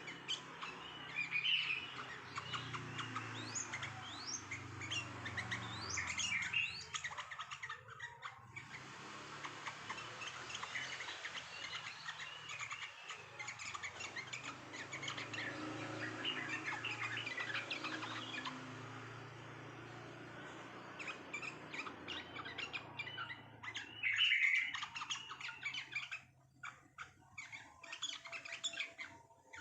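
A chorus of many small songbirds chirping and calling rapidly over one another, with quick rising and falling notes. It thins out briefly past the middle, then comes back with a loud flurry of calls near the end.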